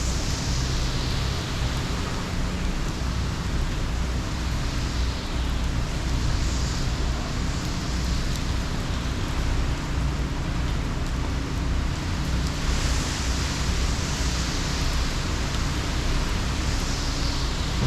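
Hurricane wind and rain: a steady rush of noise that swells in gusts every few seconds, with wind rumbling on the microphone.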